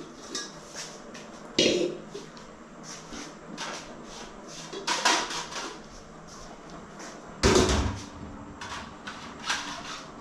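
Kitchen handling noise: scattered knocks and clatter of pots, utensils and cupboards being moved, with one heavier thud about seven and a half seconds in.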